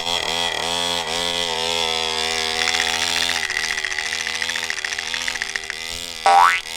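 Small 49cc two-stroke mini dirt bike engine running, its pitch rising and falling as the throttle is worked, with a buzzy, chainsaw-like note. A brief, very loud rising sweep comes about six seconds in.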